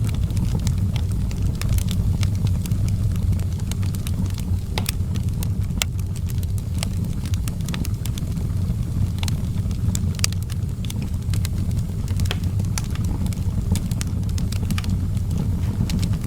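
Outdoor wood fire burning: a steady low rumble of flames with frequent sharp, irregular crackles and pops.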